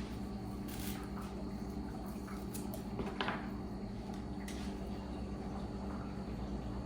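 Steady low machine hum with a few light clicks and knocks over it, the loudest about three seconds in.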